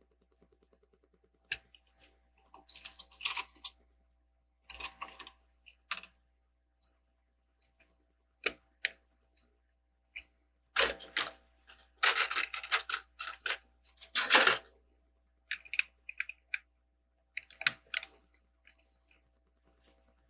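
Plastic Lego bricks clicking and clattering in irregular clusters as pieces are handled and pressed together.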